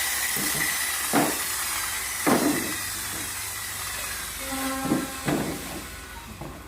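Woodworking power tool running with a steady hiss that slowly fades, broken by a few knocks of wood being handled.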